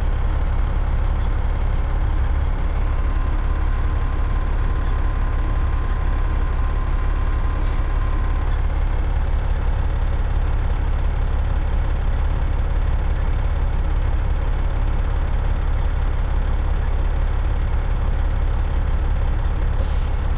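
Caterpillar 3406E straight-six diesel in a Freightliner FLD120 truck idling steadily with a deep, even rumble.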